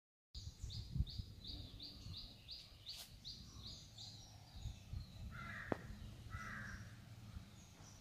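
Outdoor birdsong over a low background rumble. A bird repeats a short high chirp about three times a second for the first few seconds, and two harsher calls come a little past the middle.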